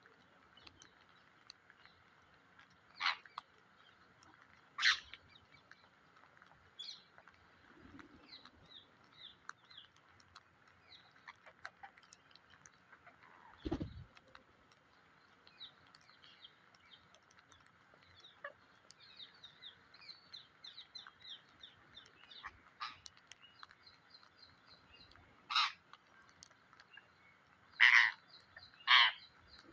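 Parrot giving loud, harsh squawks now and then, the last two close together near the end. Between them come many soft chirps and clicks.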